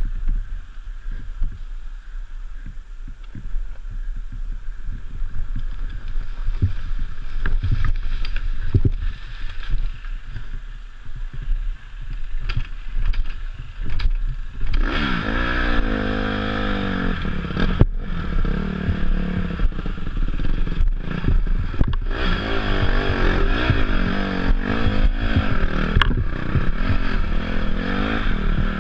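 Dirt bike ridden off-road: for the first half a low rumble with scattered knocks and clatter, then about halfway the engine opens up, its pitch rising and falling again and again as the throttle is worked, with rattling and scraping underneath.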